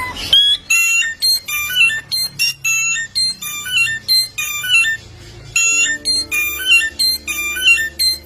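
Samyong songbird singing fast, repeated phrases of high, stepped, whistled chirps, about two phrases a second, with an electronic, ringtone-like quality typical of this bird's mimicking song. There is a short lull about five seconds in.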